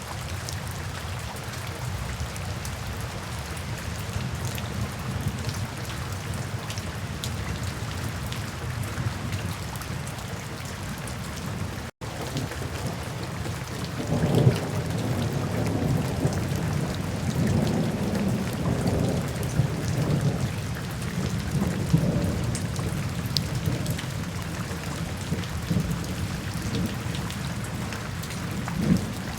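Steady rain falling, with thunder rumbling and rolling in low swells through the second half. The sound cuts out for an instant partway through.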